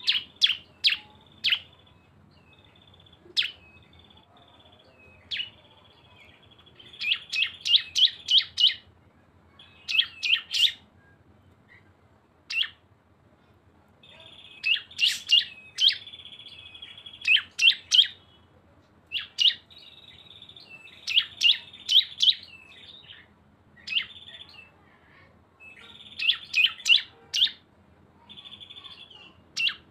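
Two small Indonesian songbirds (cisem) singing in the fast 'ngebren' style: rapid runs of four to six sharp, high notes, with a thin, steady buzzing trill between them.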